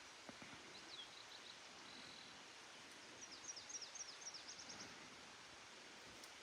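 Faint songbird calls over a steady low hiss: a few short falling notes about a second in, then a quick run of high falling chirps around the middle.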